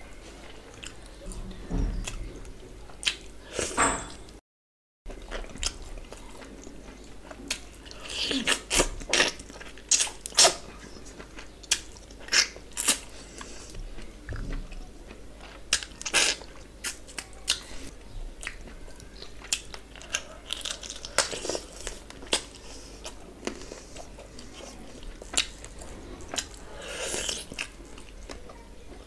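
Close-up eating sounds of a person chewing and biting into mouthfuls of chicken biryani eaten by hand: wet smacking, crunching and many sharp mouth clicks. The sound drops out completely for about half a second, about four and a half seconds in.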